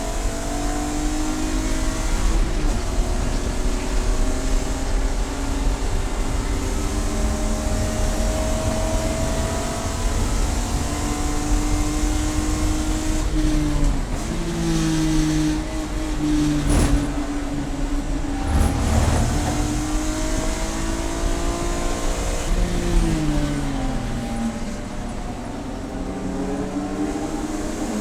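Race car engine under hard running, its pitch climbing through long pulls and stepping down at the gear changes, then falling away for several seconds as the car slows.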